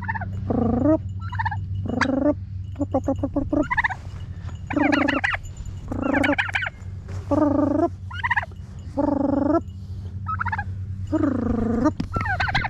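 Domestic turkey calling over and over, about ten separate calls with short gaps, one of them a fast rattling run of notes. A steady low hum runs underneath.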